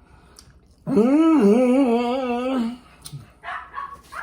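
A dog giving one long howl about a second in, rising at first and then wavering in pitch for nearly two seconds, followed near the end by a few short, higher whines.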